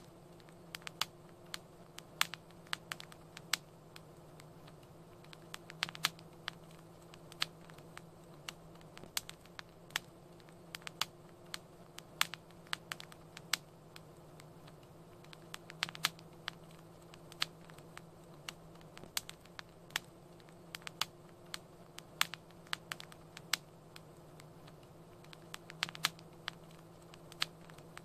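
Wood fire crackling in a fireplace: irregular sharp pops and snaps, sometimes several in a second, over a faint steady low hum.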